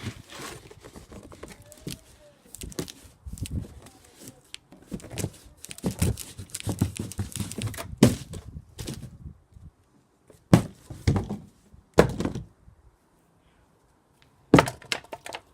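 Cardboard box being struck with a vacuum cleaner pole: repeated thuds with crumpling, a dense run of blows in the middle, then three separate hard knocks, the last near the end.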